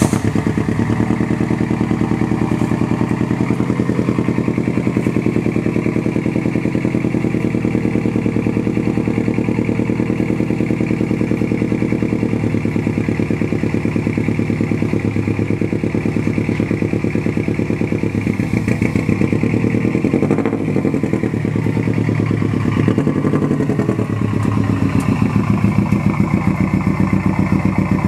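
Subaru Legacy rally car's flat-four engine running just after being started, a loud steady idle with an even firing pulse. Past the middle the note shifts a little as the car is moved out of the garage under its own power.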